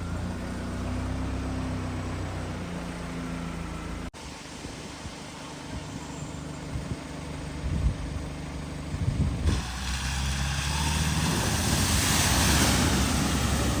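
Car engines running as vehicles drive through floodwater, with water rushing and splashing that swells loudest near the end. The sound changes abruptly twice as the scene cuts.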